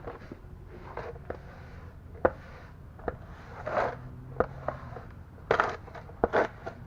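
Scattered clicks and light knocks with a few short scraping, rubbing passes: a rag wiping oily grime off metal parts under a car, with parts being handled.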